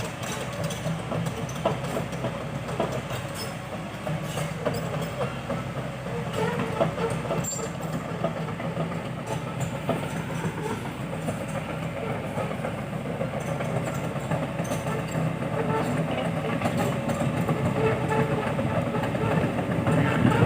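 Heavy tracked excavator's diesel engine running steadily with metallic clanking and rattling, growing a little louder near the end.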